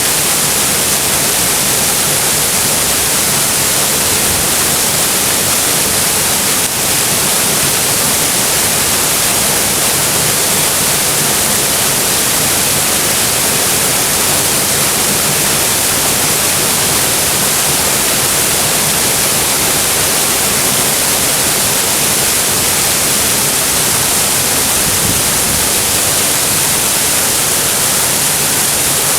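Waterfall pouring steadily: a loud, even rush of falling water, with much hiss in the treble.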